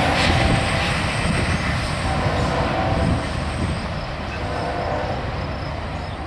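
Freight train rolling past on the rails with a steady rumble and wheel noise, slowly fading as it moves away.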